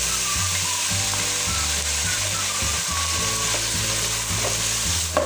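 Diced raw potatoes sizzling in hot cooking oil in a pot, a steady, dense hiss as they fry, with a spoon stirring them. A short sharp sound comes near the end.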